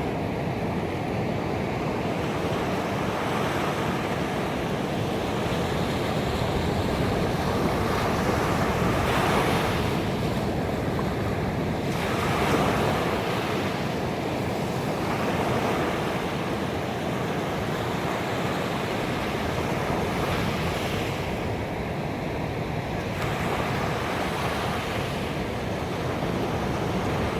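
Ocean waves breaking and washing onto a beach in a steady, continuous surf, swelling and easing every few seconds.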